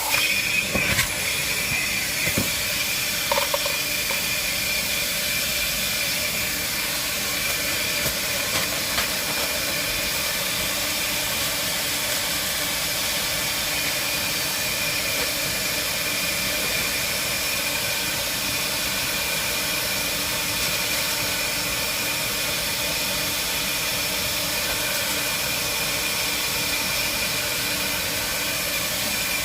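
Vacuum cleaner running steadily: an even hiss with a constant high whine, with a few light knocks in the first few seconds.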